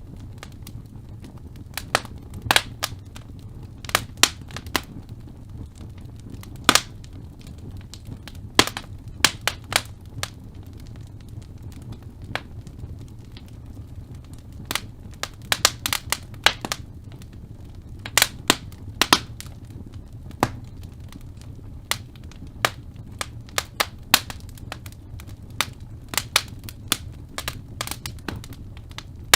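Wood fire burning in a fireplace: a steady low rumble of flames with irregular sharp crackles and pops of burning logs, some coming in quick clusters.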